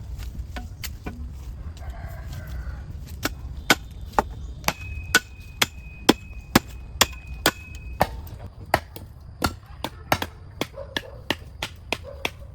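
Repeated sharp chopping blows of a tool on wood, coming regularly at about two a second from a few seconds in.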